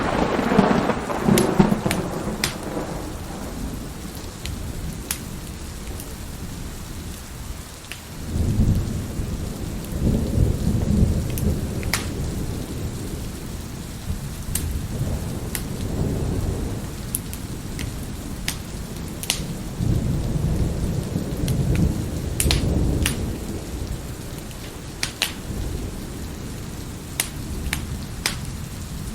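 Thunderstorm: steady rain with rolling thunder, a loud clap right at the start that rumbles away over a couple of seconds, then several more long low rolls. Sharp pops and snaps of a wood fire crackling are scattered throughout.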